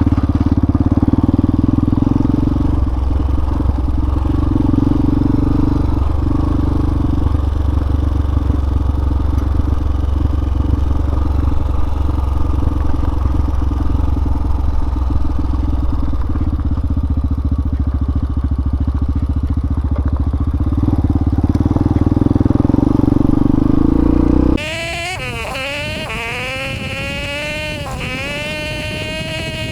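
A Hawk 250 dual-sport motorcycle's single-cylinder engine running steadily under way, with wind and road rumble. About 25 seconds in, the sound cuts off abruptly into a quieter, high-pitched buzz that wavers up and down in pitch.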